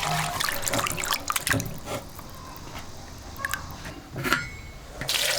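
Water splashing and trickling, with scattered clicks. It is busy for the first two seconds, quieter after that, and a louder rush of water starts near the end.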